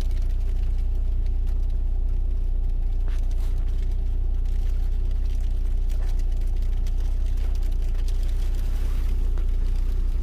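A vehicle engine idling steadily: a constant low hum with no change in speed.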